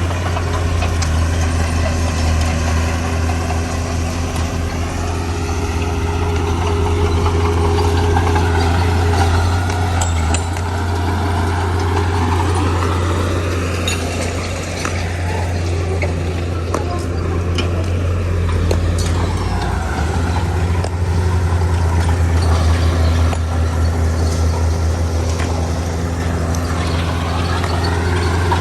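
Heavy diesel engine of earthmoving machinery running under load, its pitch rising and falling as the machine works. There are occasional sharp clinks and knocks.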